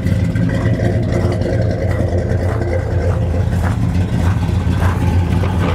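A 383 cubic-inch V8 with a mild cam, long-tube headers and dual exhaust idling steadily with a deep, even rumble. The engine is still cold, only just started.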